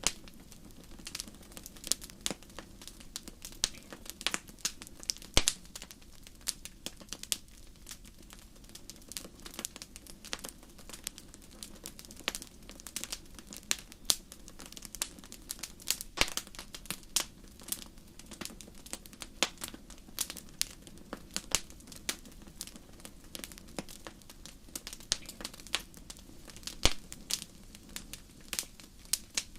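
Wood fire crackling: a dense, irregular run of sharp snaps and pops, a few much louder than the rest, over a low steady hiss.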